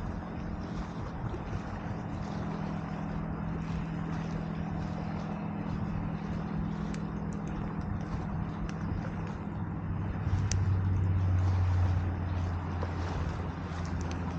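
A distant engine hums steadily, and a deeper tone swells louder about ten seconds in before easing off. The scattered crackles and pops of a wood campfire run under it.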